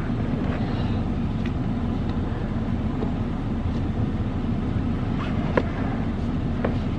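Steady low rumble of a car's engine idling. A few faint clicks come near the end, as the car-seat harness is buckled.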